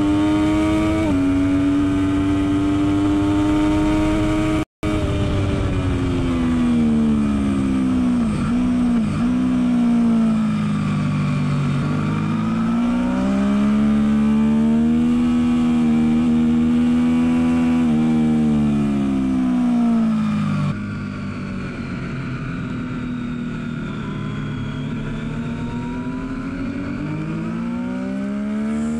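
Triumph Daytona 675R inline-three engine heard onboard at track pace: revs rise and fall through the gears, with quick dips on downshifts and long pulls at high revs. The sound cuts out for an instant about five seconds in, and near the end it grows softer and duller before the revs climb again.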